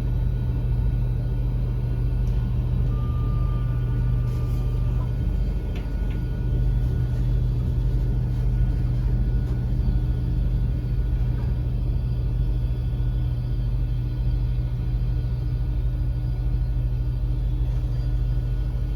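Steady low rumble heard from inside a Great Western Railway Class 802 bi-mode train as it arrives at a station, with a faint short whine about three seconds in.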